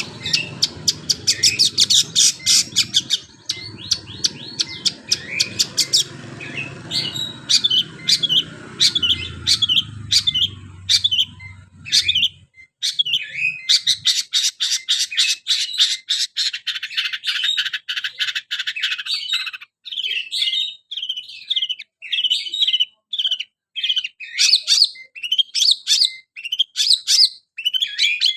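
Long-tailed shrike (cendet) singing a fast canary-like song of rapid high chirps, with a long, quick, even trill in the middle. A low background rumble sits under the song for the first twelve seconds or so, then stops.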